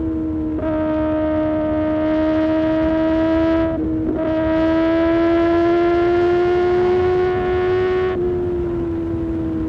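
Kawasaki ZX-6R inline-four engine with an Arrow Pro Race exhaust, pulling hard at high revs under throttle. There is a brief break in the pull about four seconds in, then the revs climb slowly. About eight seconds in the throttle closes and the revs fall away.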